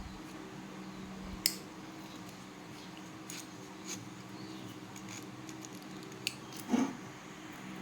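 Hand work on the pump: scattered sharp clicks and snips, with a louder scrape or rustle near the end, over a steady low hum.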